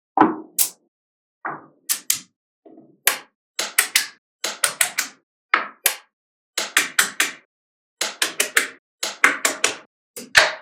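Small magnetic balls clicking as they snap together onto a model, in quick runs of two to four sharp clicks with short pauses between; a few duller knocks among them.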